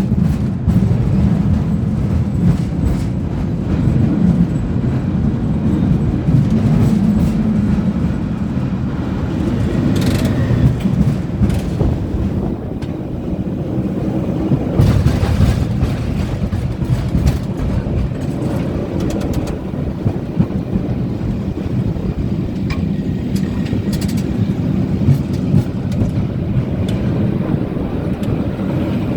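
San Francisco cable car rolling on its rails: a steady low rumble with scattered clicks and clanks.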